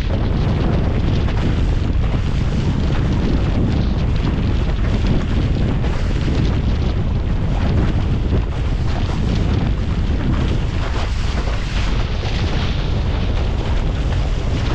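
Strong wind buffeting the microphone in a loud, steady rumble, with a hiss of rushing air and water over it, while sailing a Laser dinghy in high winds.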